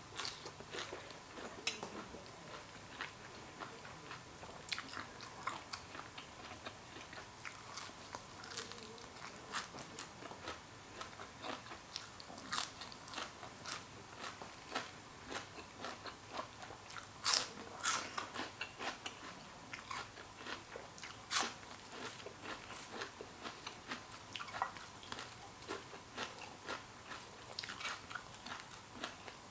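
Close-miked chewing of spicy horseshoe crab egg salad: an irregular run of short, sharp, wet clicks, several a second, as the eggs pop in the mouth.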